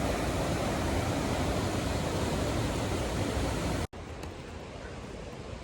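Rushing river water from the Presque Isle River's rapids or falls: a steady, loud rush that cuts off about four seconds in and continues more quietly.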